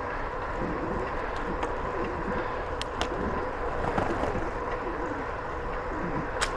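Steady rolling noise of a bicycle being ridden: tyres on the trail surface and wind on the microphone, with a few short sharp clicks, two about three seconds in and one near the end.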